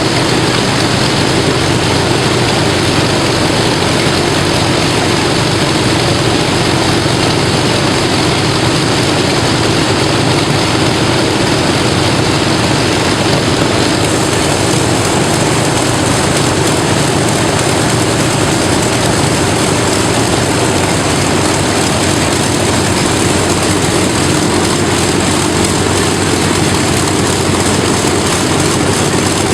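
Avro Lancaster's Rolls-Royce Merlin V12 piston engines and propellers running steadily and loudly, with no change in speed.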